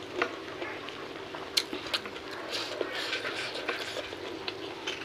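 Close-up chewing and mouth sounds of someone eating rice, fried chicken and leafy greens by hand, with scattered sharp smacks and clicks. Soft rustling comes from fingers gathering rice on a banana leaf.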